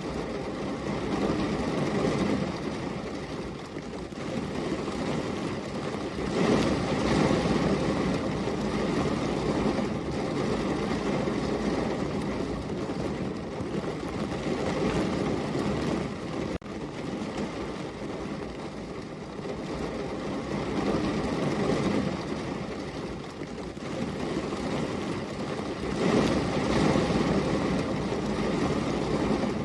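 Heavy rain falling steadily, a dense hiss that swells louder and eases off again every several seconds.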